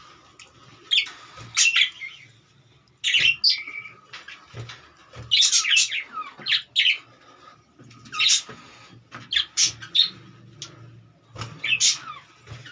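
Pet budgerigars chirping in short, sharp bursts of high calls, about one burst a second, with a faint steady hum underneath.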